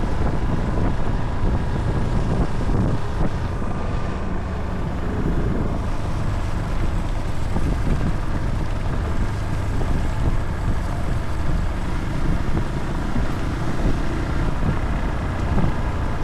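A vehicle on the move, a steady low rumble with wind noise on the microphone.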